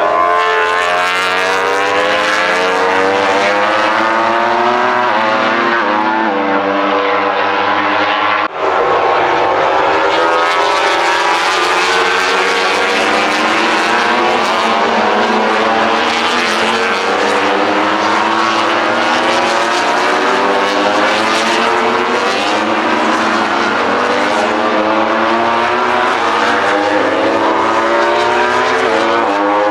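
Several MotoGP racing motorcycles' 1000cc four-cylinder four-stroke engines at full noise, their notes rising and falling as they rev up and shift through the gears, overlapping with one another. The sound breaks off sharply for a moment about eight and a half seconds in, then carries on.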